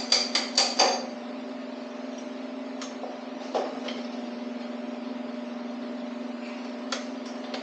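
Quick series of light metallic taps, about five in the first second, as engine parts are worked loose during a teardown. Then a steady background hum with a few scattered clicks.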